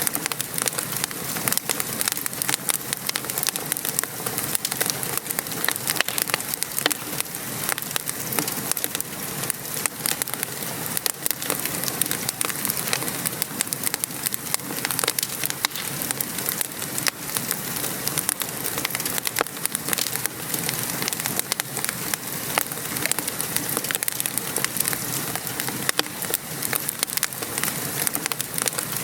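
Wood fire crackling in a fireplace, with many short sharp pops, over a steady hiss of rain.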